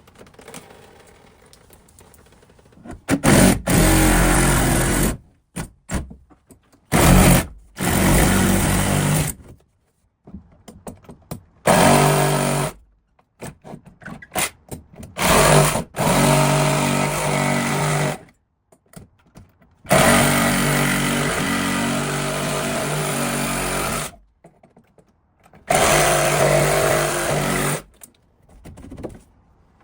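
An electric power tool's motor runs in repeated bursts of one to four seconds at a steady pitch, starting and stopping abruptly, with silent gaps between.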